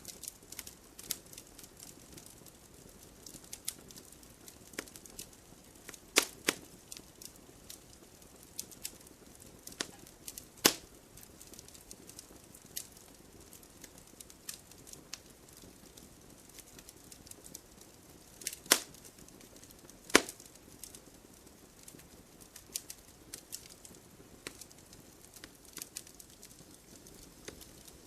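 Wood fire burning in a fireplace, crackling with frequent small snaps and a few louder pops.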